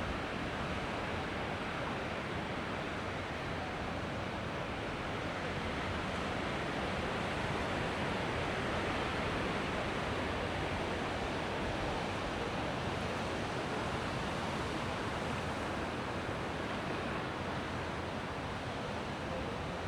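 Mediterranean waves washing on the beach, a steady rush of surf with no distinct breaks.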